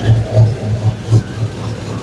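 2002 Chevrolet Silverado pickup engine idling, with an uneven low pulsing in its exhaust note. It has an exhaust leak, which the owner puts down to a V-band clamp not seated all the way round.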